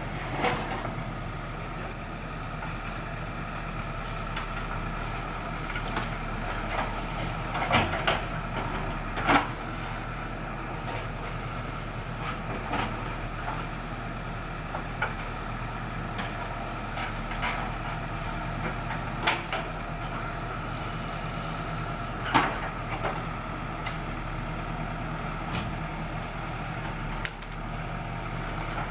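ACE AX124 backhoe loader's diesel engine running steadily, with sharp knocks every few seconds, the loudest about eight, nine and twenty-two seconds in.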